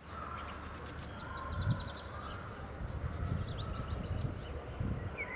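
Outdoor ambience: small birds chirping in quick trills, over a low, uneven rumble.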